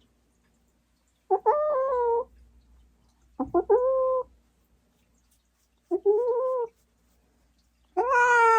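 A Norwegian Forest Cat meows four times in protest while being held for chin-acne cleaning. Each call lasts under a second, and the last is the loudest.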